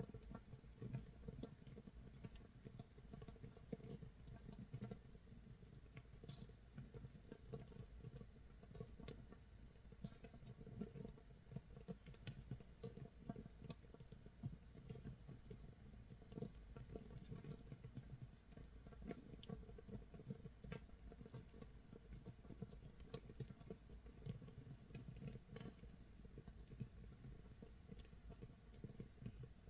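Makgeolli starter mash fermenting in an earthenware jar: carbon dioxide bubbles popping at the surface of the mash in a faint, dense, irregular crackle, like rain patter or rice crust sizzling. It is the sign of vigorous fermentation about 24 hours in.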